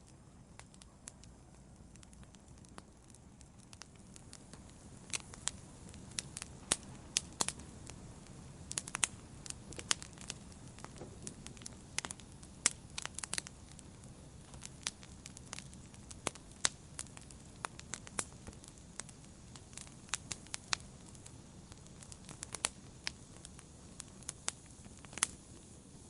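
Campfire burning with a low steady hiss and irregular sharp crackles and pops of wood, sparse for the first few seconds and then coming thick and fast.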